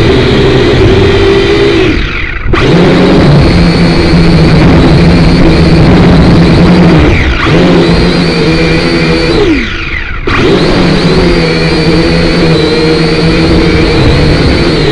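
Syma X5C toy quadcopter's small electric motors and propellers whining steadily under throttle, with wind buffeting the microphone. Twice the whine drops away and jumps straight back up, about two seconds in and again near ten seconds in, as the throttle is cut and reapplied.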